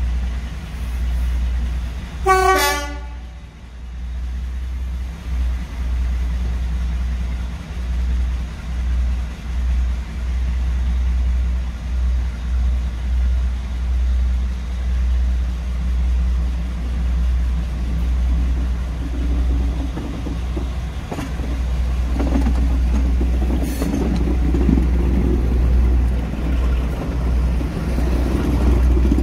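A heritage train sounds a single short toot, about a second long, about two seconds in, over a steady low rumble that rises and falls. In the last ten seconds the train's running sound builds and grows louder as it approaches.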